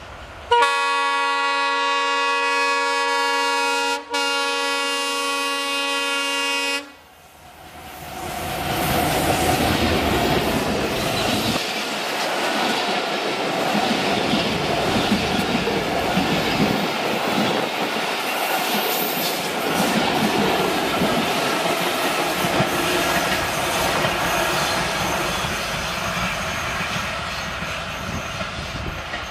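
Diesel locomotive's air horn sounds two long blasts, the first about three and a half seconds and the second under three, then cuts off. The train's coaches then run past at speed, a steady rolling rumble with clickety-clack from the rail joints that slowly fades near the end.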